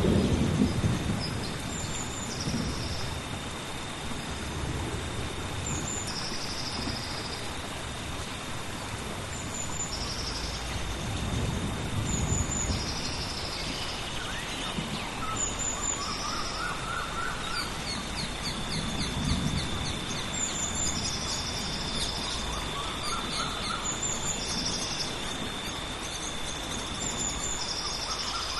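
Rainforest rain hissing steadily under a bird repeating a short high call every two seconds or so, with a steady high insect drone behind it. Low thunder rumbles near the start and twice more around the middle.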